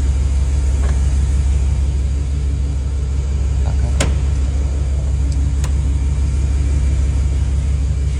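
V8 engine of a Dodge 1500 idling steadily with a deep, even drone. Two light clicks come about four and five and a half seconds in.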